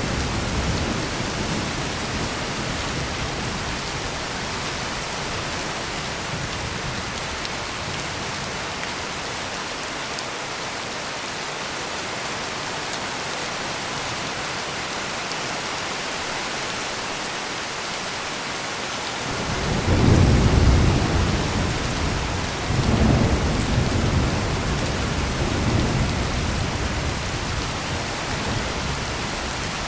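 Heavy rain pouring steadily, with thunder. A low rumble dies away in the first few seconds; about two-thirds of the way in a loud thunderclap rumbles in and rolls on in a few swells before fading back under the rain.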